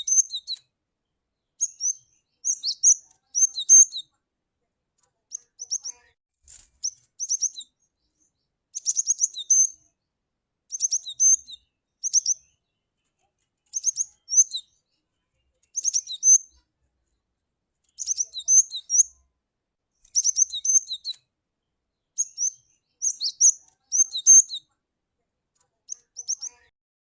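Cinereous tit (glatik batu) calling: short clusters of high, quick chirps repeated every second or two, with silent gaps between them.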